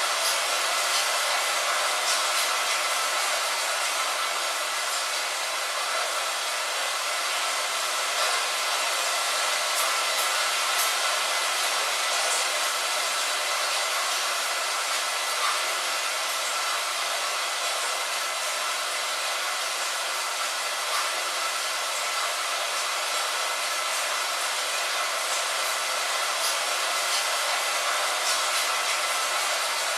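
Steady rain falling on a window: an even hiss, with faint ticks of single drops now and then.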